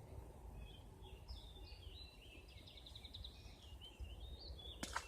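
Faint songbird singing, a string of high chirps with a quick trill in the middle, over a low outdoor rumble. A sharp click near the end.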